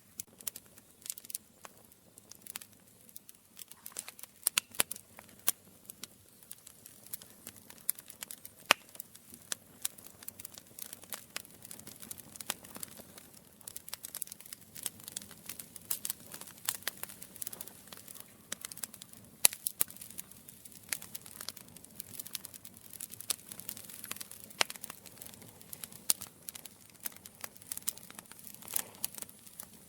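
Wood campfire burning: irregular sharp crackles and pops over a soft steady hiss of flame.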